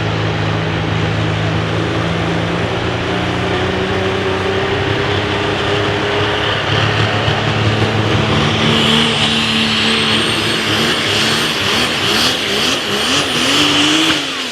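Multi-turbocharged super stock diesel pulling truck running hard under load. A high turbo-like whine joins about halfway, and the engine pitch wavers up and down near the end before the sound drops off sharply.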